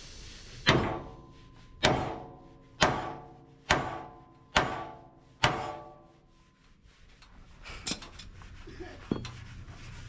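A hammer striking steel six times, about one blow a second, each blow ringing out and fading; a few lighter knocks and clinks follow.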